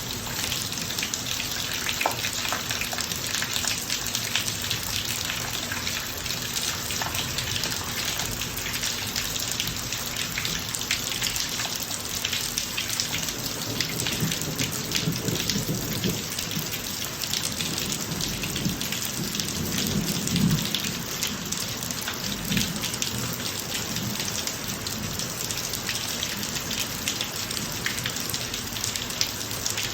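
Steady rain falling on a driveway, a dense patter of drops, with a low roll of thunder rising in the middle and peaking about two-thirds of the way through.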